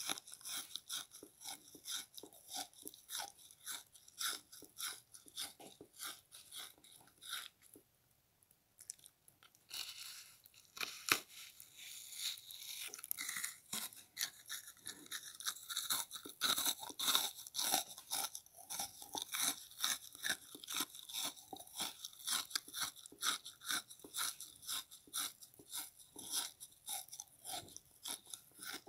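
Close-up crunchy chewing of a frozen pink bath sponge: rapid, sharp crunches about twice a second, a short pause about eight seconds in, then denser crunching.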